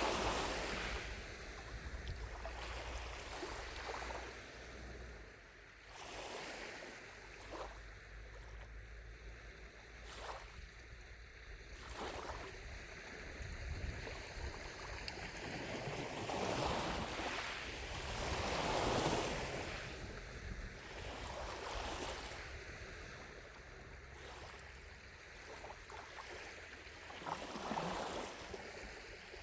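Small lake waves lapping on the shore, washing in and out every few seconds with a few stronger surges, over a low rumble of wind.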